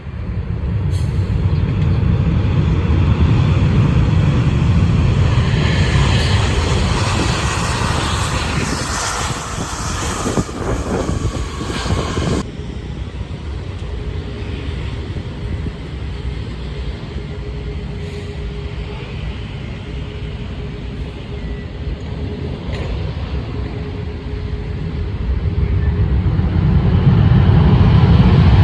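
Jet airliner engines on landing approach passing close by: a loud rumble with a whine that falls in pitch as the plane goes past. The sound cuts off abruptly about twelve seconds in, leaving a quieter steady rumble that swells again near the end as another arrival approaches.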